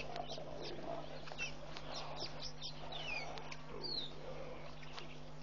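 Wild birds chirping: a run of short, quick calls that slide down in pitch, several overlapping, over a steady low hum.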